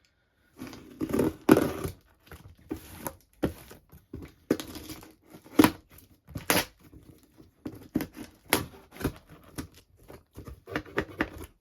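Cardboard and plastic packaging being handled and torn open: an irregular run of crackles, rips and sharp clicks.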